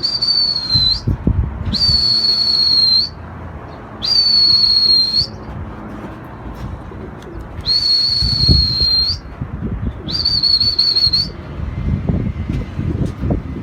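A person whistling long, steady high notes, about five of them, each a second or so long with short gaps between, calling flying pigeons down to land. Low rumbling noise comes and goes underneath.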